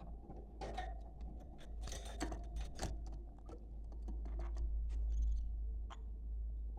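Budgerigars chattering: scattered short chirps and sharp clicks at irregular intervals, over a steady low hum.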